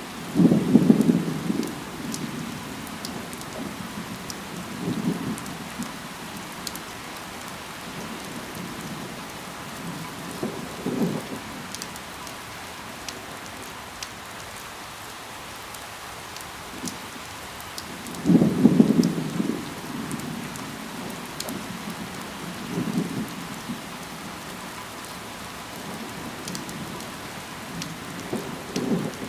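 Steady rain falling on leaves, with scattered sharp drip ticks. Several low rumbles swell and fade over it, the strongest about a second in and again about eighteen seconds in.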